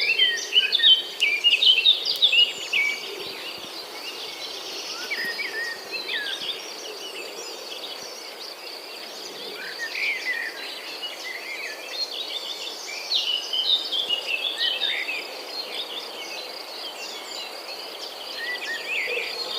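Several wild birds chirping and calling in short, varied phrases, busiest at the start and again in the second half, over a steady high-pitched insect drone.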